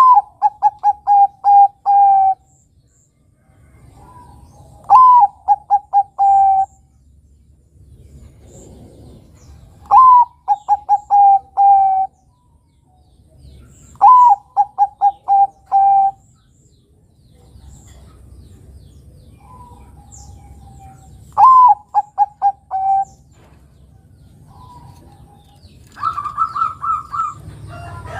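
Zebra dove (perkutut, Bangkok type) cooing its song five times: each phrase a rising first note, a quick run of short coos and a longer final coo, a few seconds apart. Near the end a different, higher bird call comes in.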